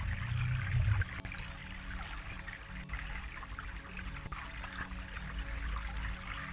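Running water trickling and splashing, like a small stream, with a low rumble underneath that is strongest in the first second.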